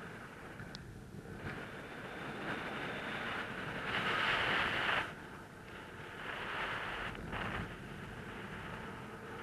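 Wind rushing over the microphone of a paraglider pilot's camera in flight, a steady noise that swells into a stronger gust about four seconds in, dropping back after a second or so, and rises again briefly near the seven-second mark.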